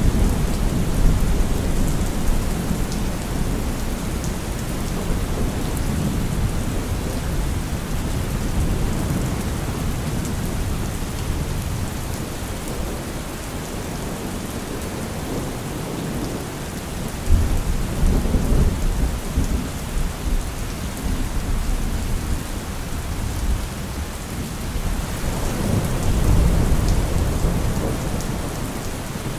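Heavy rain falling steadily, with low thunder rumbling underneath. A sharper rumble comes about 17 seconds in and a longer swell of thunder near the end.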